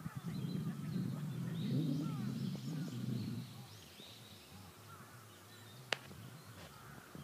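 Faint bird calls, short scattered chirps, over quiet outdoor ambience. A low rumble fills the first three seconds or so, and a single sharp click comes about six seconds in.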